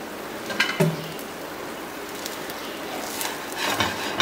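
Dosa batter sizzling in oil on a non-stick tawa over low heat, a steady soft crackling hiss. Near the end a steel spatula scrapes under the dosa, ending in a short click.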